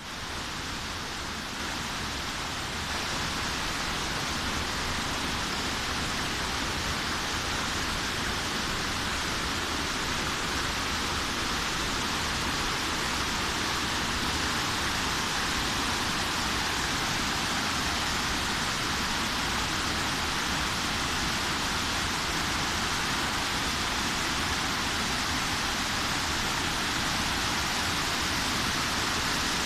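Steady rush of a waterfall: falling water as a dense, even hiss that swells a little over the first few seconds and then holds.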